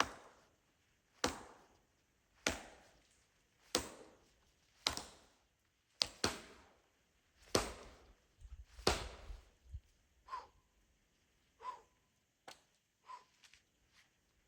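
Wood being chopped with an axe: about nine heavy blows at an even pace of a little over one a second, then a few lighter knocks near the end.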